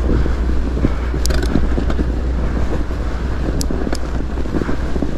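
Steady low wind rumble on the microphone mixed with the rolling noise of a fat bike's wide studded tyres on a snowy trail, with two faint clicks, about a second in and again some two and a half seconds later.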